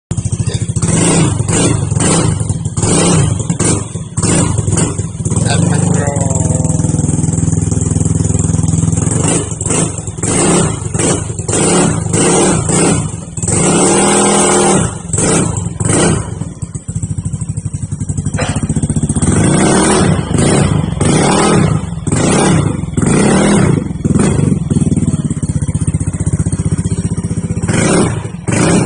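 Yamaha NMAX scooter's single-cylinder engine revved through an aftermarket Tsukigi-style exhaust: repeated short throttle blips, with a few longer revs that rise and fall in pitch.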